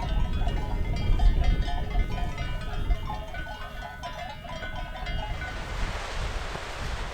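Bells on grazing sheep or goats clinking irregularly, over low wind rumble on the microphone. About five seconds in, the bells fade under a steady rushing noise.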